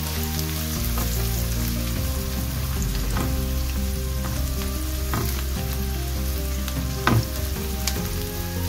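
Sliced onions and garlic sizzling in oil in a nonstick frying pan while a spatula stirs and scrapes through them. There are a few spatula knocks against the pan, the loudest about seven seconds in.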